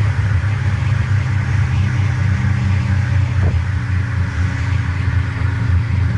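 Subaru Legacy GT's turbocharged 2.5-litre flat-four engine running steadily at road speed, heard from inside the cabin as a constant low drone mixed with road noise.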